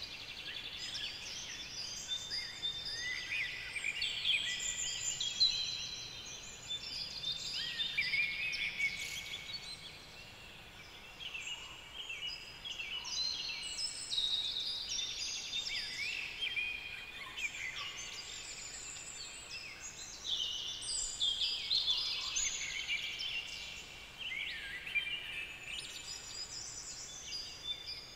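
Several songbirds singing at once: many overlapping short whistled and trilled phrases, with a quieter stretch about ten seconds in.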